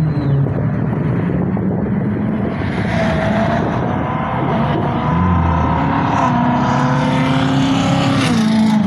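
Car engine revving: its pitch climbs about five seconds in, holds high for a few seconds, then drops near the end.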